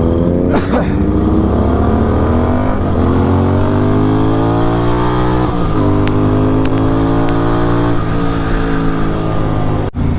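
Kawasaki Z900's inline-four with an SC Project exhaust, pulling hard. Its pitch climbs steadily and then drops sharply about four times as the rider shifts up through the gears.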